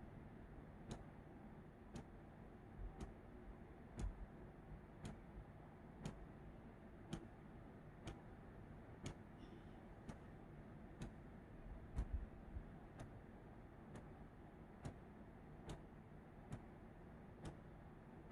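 Faint clock ticking steadily, about once a second, over a quiet low background hum.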